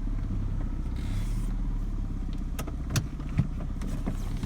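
Saab 900 Commemorative Edition's turbocharged four-cylinder engine running steadily at low speed as the car pulls out of the garage, still cold from a cold start. A few sharp clicks come about three seconds in.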